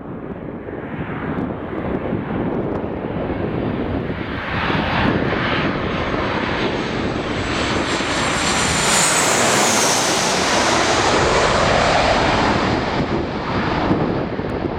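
Landing airplane on approach passing low overhead: its engine noise grows steadily louder, then a high whine drops in pitch as it goes over about two-thirds of the way in.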